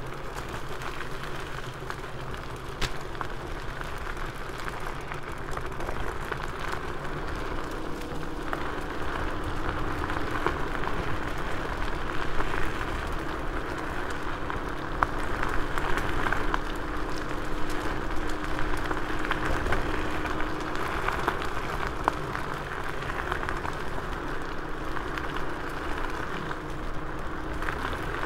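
KuKirin G2 Max electric scooter riding over a forest dirt path: tyre noise on the ground with frequent rattles and knocks from the frame and suspension. A steady electric-motor whine comes in about a third of the way through and drops out and back near the end.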